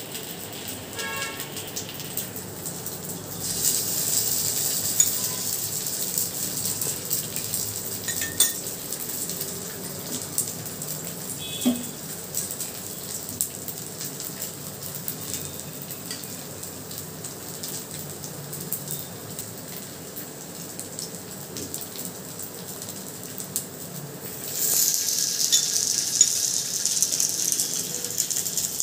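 Thavalai vadai frying in hot oil in a pan: a steady sizzle that grows louder about three seconds in and again near the end, with a few short clicks of a metal ladle against the pan.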